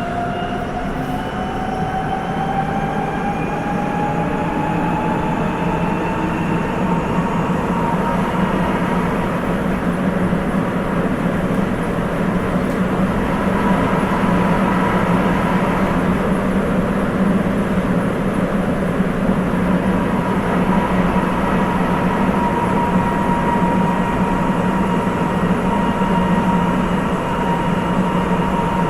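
Sapporo Municipal Subway 8000 series car's Hitachi IGBT VVVF inverter whine. It rises in pitch over the first several seconds as the train accelerates, then holds steady. It runs over the steady rolling noise of the rubber-tyred subway train, and its tone is close to a JR West 223 series.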